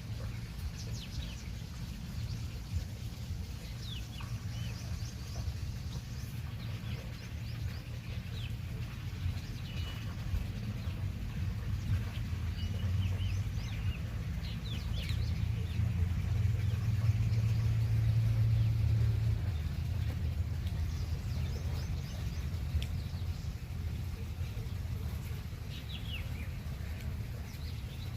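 Birds chirping here and there with short, quick calls, over a steady low rumble that grows louder in the middle and then eases.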